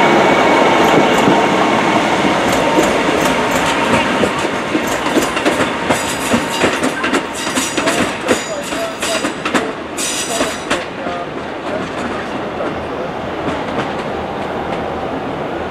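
Diesel multiple unit running away along the tracks. Its wheels clatter over rail joints and points in a quick run of sharp clicks through the middle, and the sound fades as it draws away.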